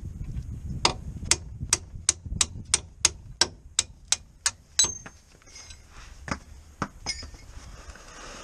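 A quick, even run of sharp metallic strikes, about three or four a second, over roughly four seconds: metal being tapped or hammered on metal during clutch work. A few scattered taps follow near the end.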